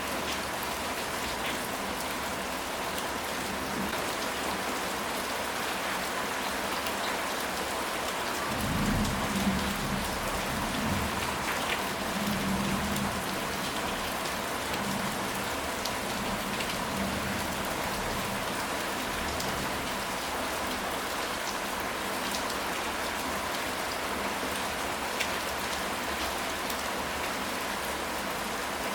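Steady rain falling, an even hiss with scattered drop ticks. About nine seconds in, a low rumble of distant thunder rolls for a few seconds.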